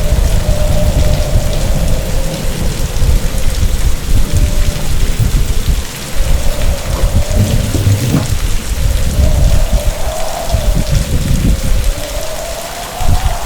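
Heavy rain in a storm with deep, rolling rumbles of thunder and wind, and a wavering howl that rises and falls above the rumble.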